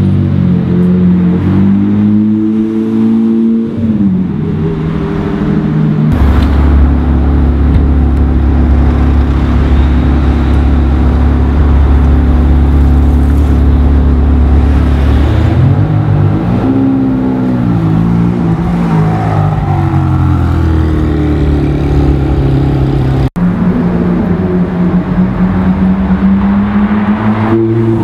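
Supercar engines in a run of short clips. First a car accelerating. From about six seconds in, a Ferrari 360 Challenge Stradale's V8 idles steadily with a strong low note, then revs up and down. Near the end a Ferrari F430 Spider's V8 accelerates away with rising pitch.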